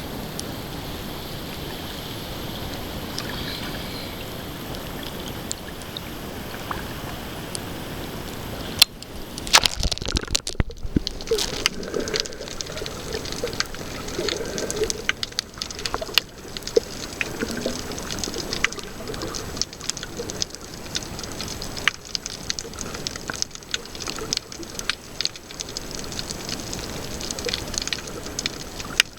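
Water heard through a snorkeler's camera. It starts as a steady wash. About nine seconds in there is a burst of splashing, and after that come gurgling bubbles and scattered crackling clicks.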